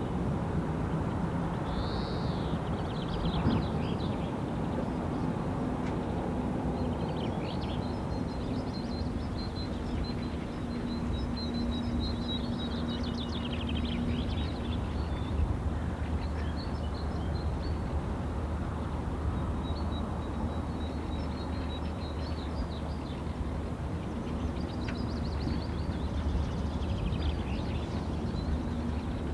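Wild birds chirping and trilling on and off over a steady low rumble with a faint hum.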